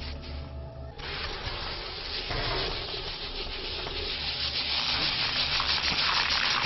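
Continuous rough hissing with fine crackles, the film's sound for a bombardier beetle spraying its hot chemical at attacking ants; the hiss drops away briefly in the first second, then comes back.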